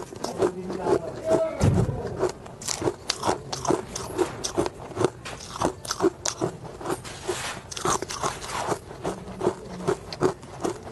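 Close-miked biting and chewing of hard ice: many quick, irregular crunches, with a low thump a little under two seconds in.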